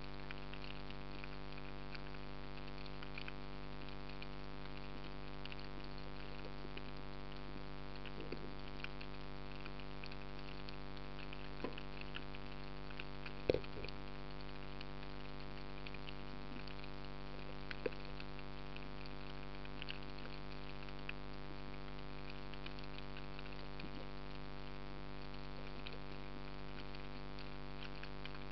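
Underwater ambience: a steady hum with faint scattered clicks and crackles, and one sharper click about halfway through.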